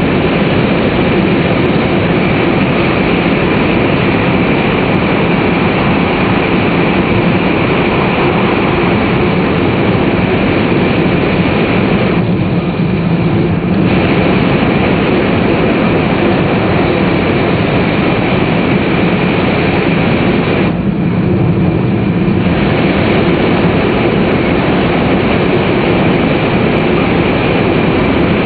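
Tōhoku Shinkansen Hayate train running at speed, heard inside the passenger car: a steady, loud rumble and rush of motor, wheel and air noise. The higher part of the rush eases briefly twice, about twelve and twenty-one seconds in.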